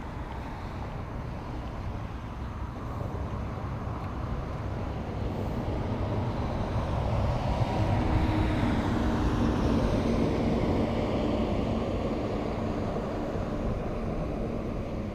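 A passing engine-driven vehicle that grows louder to a peak about two-thirds of the way through, then begins to fade, its engine hum changing pitch as it goes by.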